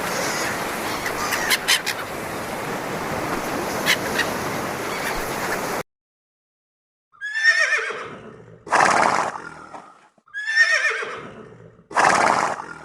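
A steady rushing noise with a few sharp clicks, cutting off abruptly; then an animal calls twice, each time a quavering call falling in pitch, followed by a short breathy blast.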